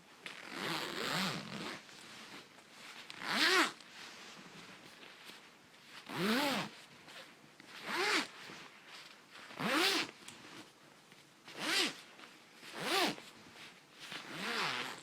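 Coat zipper being zipped quickly back and forth, about eight separate strokes each one to two seconds apart, the pitch of each stroke rising and falling.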